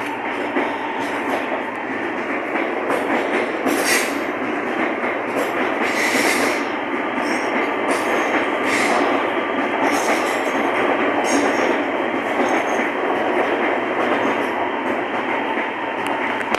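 CSR electric multiple unit train pulling out and rolling past, with steady wheel-on-rail running noise. Brief high-pitched bursts recur every second or two.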